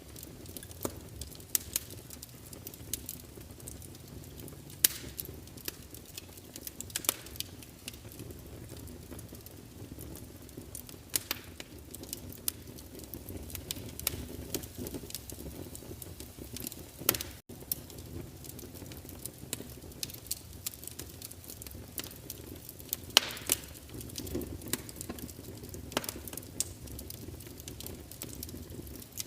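Wood fire crackling in a fireplace: a steady low rumble of flames with frequent small crackles and a few sharper, louder pops scattered throughout. The sound drops out for an instant about halfway through.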